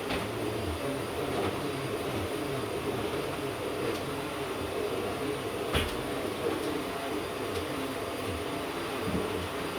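Vacuum cleaner running steadily while hoovering the floor, with one sharp knock about six seconds in.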